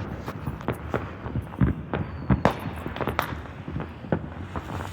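Fireworks going off: a string of sharp, irregular pops and cracks, a few louder bangs among them.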